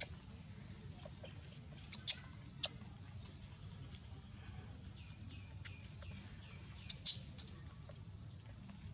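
Short, high-pitched animal chirps: a couple of sharp calls about two seconds in, faint falling chirps in the middle and another sharp pair near the end, over a steady low hum.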